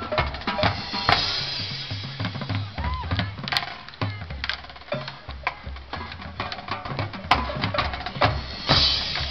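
Marching band drumline playing: rapid snare-drum strikes over low bass-drum notes that step between pitches, with cymbal crashes about a second in and again near the end.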